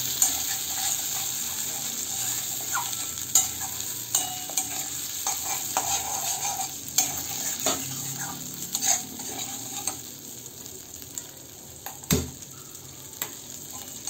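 Soaked rice and spice paste sizzling in mustard oil in an aluminium kadai while a metal spatula stirs and scrapes against the pan, with one sharper knock near the end.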